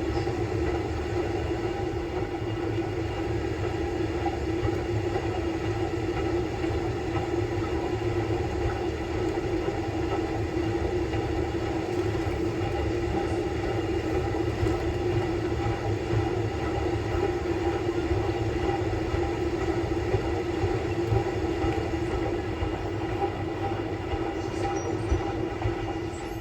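Samsung Bespoke Grande washing machine running its quick-wash course: a steady motor-and-drum hum over a low rumble.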